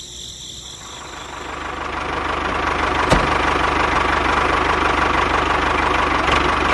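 Tractor engine running steadily, with a fine even pulsing at the low end; it fades in over the first second or two and then holds. Crickets chirp faintly at the start, and there is one short click about three seconds in.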